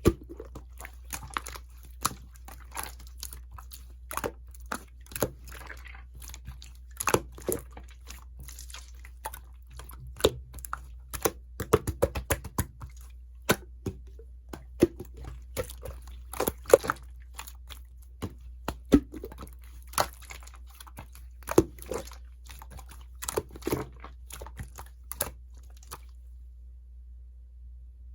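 Clear slime being squished and pulled by hand, giving irregular sticky pops and crackles. The pops stop about two seconds before the end, leaving only a steady low hum.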